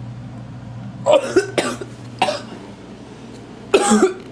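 A man coughing in short fits, about a second in and again near the end, from the smoke of a DVD burnt in a microwave.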